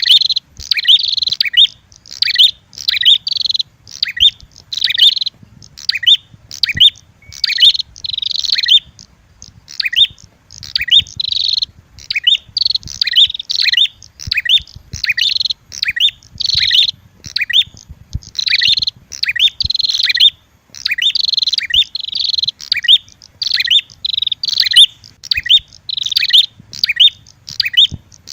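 Prenjak (prinia) calls: rapid strings of sharp, high chirps repeated in quick bursts. It is a lure recording combining the red-headed prenjak's call with an agitated female prenjak.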